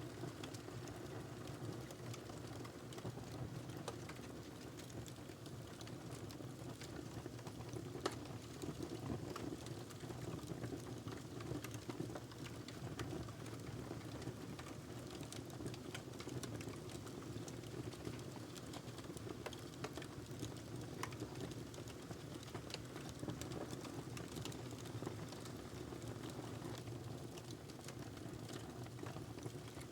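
Wood fire crackling in a fireplace: scattered sharp pops and snaps over a steady low rumble and hiss of the flames, with one louder pop about eight seconds in.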